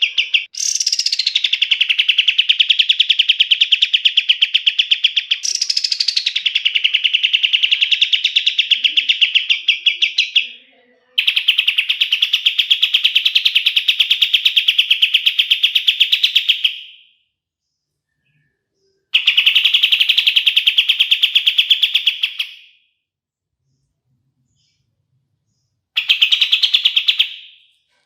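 Kapas tembak songbird singing long, very fast rattling trills of rapidly repeated notes. Each trill opens with a short downward sweep and then holds a steady pitch for several seconds. There are four trills, with silent gaps after the second and third, and the last is short, near the end.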